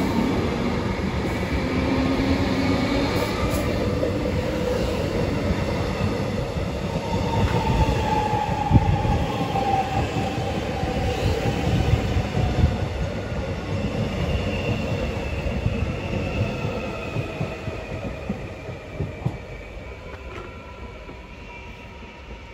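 Electric suburban train running along the platform: wheel rumble on the rails with the whine of the traction motors gliding in pitch. It fades as the train draws away near the end.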